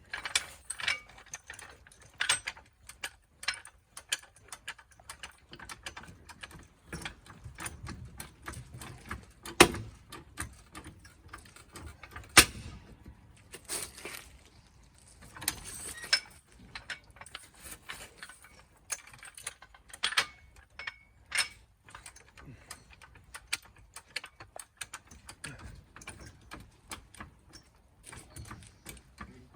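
Scattered metal clicks, clanks and ratcheting of hand tools working on a car's wheels, with two sharp knocks, one about ten seconds in and one about twelve seconds in.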